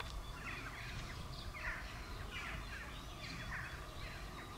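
Small birds chirping, short falling notes repeating about every half second, over a low steady rumble.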